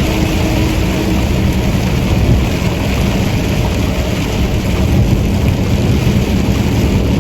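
Heavy rain hissing steadily over the low, constant drone of a truck running at speed on the expressway, heard from inside the cab.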